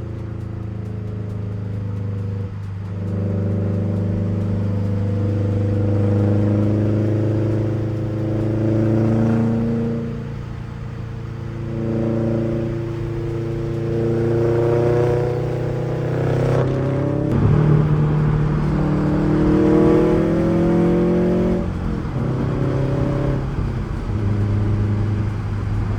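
Subaru WRX's turbocharged flat-four engine, with a catless downpipe and Tomei cat-back exhaust, heard from inside the moving car. The exhaust note climbs in pitch as the engine pulls through a gear, then drops at each gear change, several times over.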